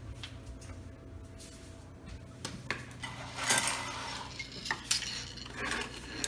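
Light clattering and clinking as dishwasher parts are handled, with a few sharp knocks and scraping rustles over a steady low hum.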